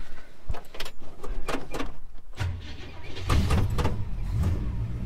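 Clicks and knocks of handling, then a Holden HK's engine is started: a brief crank about two and a half seconds in, after which the engine catches and settles into a steady, nice and quiet idle on its first startup.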